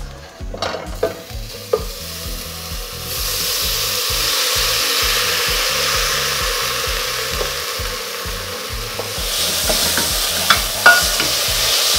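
Chopped spinach hitting a hot pot of frying butter and onion, sizzling loudly, while a wooden spatula knocks and scrapes it off a wooden chopping board and stirs it. The sizzle starts up about three seconds in and eases off near the end, where a few sharp spatula knocks come through.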